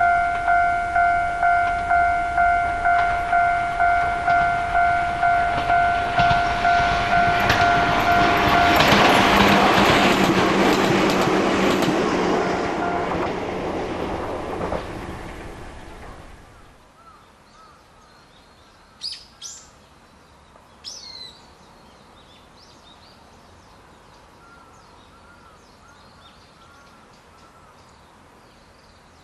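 A railway level-crossing bell dings about twice a second while an Ichibata Electric Railway train comes up and passes; its running noise swells and then fades away, and the bell stops about nine seconds in. Afterwards a quiet outdoor background with a couple of short bird calls.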